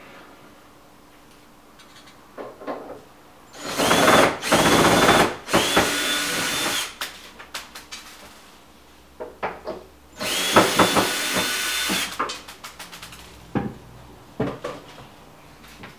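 Power drill/driver running in three bursts, each spinning quickly up to a steady whine, with clicks and knocks of handling between them; it is taking out screws to remove a kitchen cabinet.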